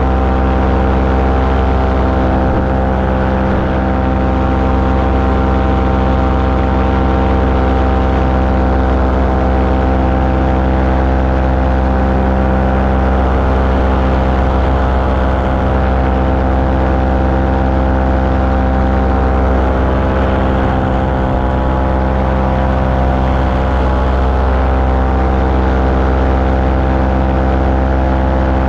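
Small aircraft engine running steadily at constant power in flight, an even drone with no change in pitch.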